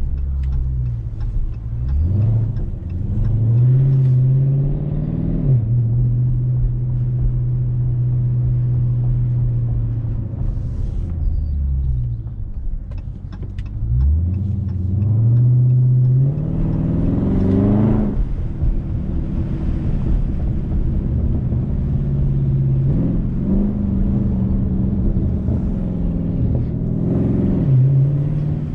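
Dodge Charger Scat Pack's 6.4-litre HEMI V8 with its mid mufflers deleted, heard from inside the car while driving. The engine pulls up in pitch about two seconds in, then cruises steadily. Around the middle it pulls harder to a higher pitch, and the pitch drops sharply, typical of a gear change or the throttle closing.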